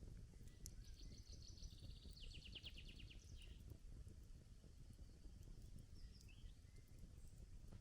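Faint crackling of a wood campfire, a few scattered pops over a low steady rumble of outdoor air. A small songbird sings a quick high trill of rapid repeated notes about a second in, with a short chirp a little later.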